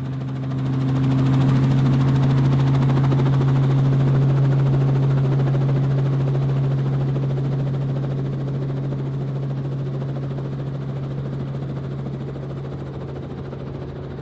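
Crop-spraying helicopter flying: a steady, loud rotor and engine hum that swells about a second in and then slowly fades.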